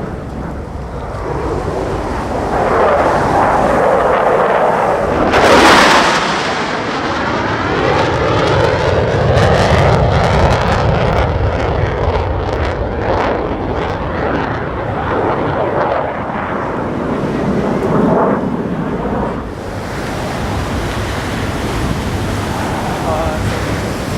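USAF Thunderbirds F-16 Fighting Falcon jets flying past: jet noise builds, peaks sharply about five or six seconds in, then rumbles on with a sweeping, falling pitch before dropping off about twenty seconds in, leaving wind and surf.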